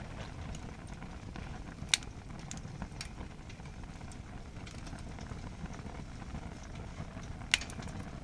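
Firewood blazing in a campfire fire-pit stand heaped beyond capacity: a steady low rush of flames with scattered crackles and two sharp pops, one about two seconds in and one near the end.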